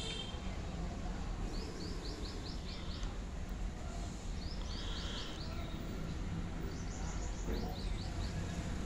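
A small bird calling: quick runs of four to six short, high chirps, heard about four times, over a steady low outdoor rumble.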